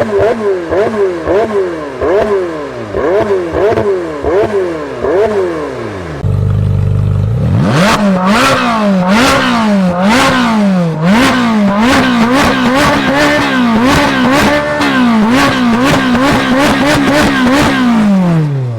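Supercar engines revved hard over and over, the pitch rising and falling in quick blips about twice a second. About six seconds in the sound switches to another engine idling low, which is then revved repeatedly with sharp exhaust pops and cracks.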